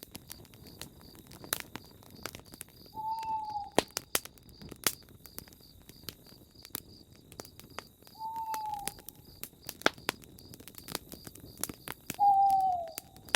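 Campfire crackling and popping, with an owl hooting three times: single, slightly falling hoots about five seconds apart, the last one the loudest.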